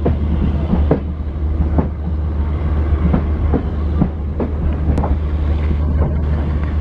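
LHB passenger coach running at speed on the track, heard from the open door: a steady low rumble with the wheels clicking over rail joints about once or twice a second.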